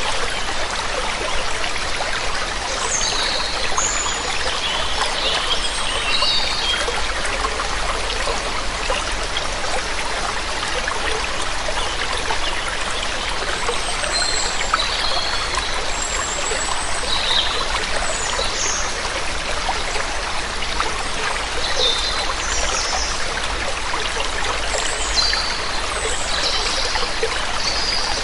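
Waterfall water rushing steadily, with songbirds giving short high chirps on and off above it.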